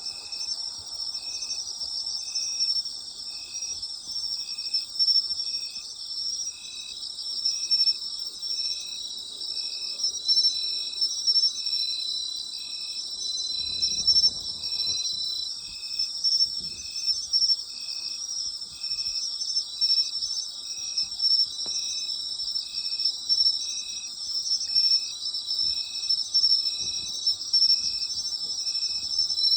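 Night chorus of autumn insects: several kinds trilling continuously in a high, dense wash, with one insect chirping in a steady rhythm about once a second.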